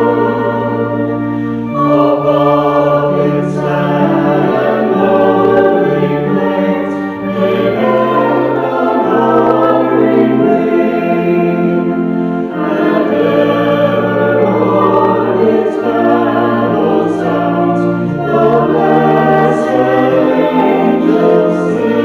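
Choir singing a hymn in held, chorded phrases over steady bass notes.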